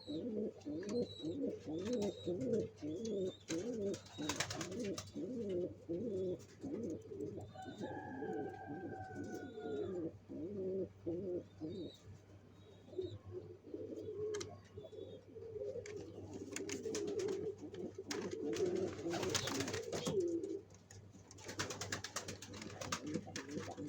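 Domestic pigeons cooing over and over in low pulsing phrases, with faint high chirps in the first few seconds and a drawn-out falling tone about eight seconds in. Several spells of rustling noise break in, the longest near the end.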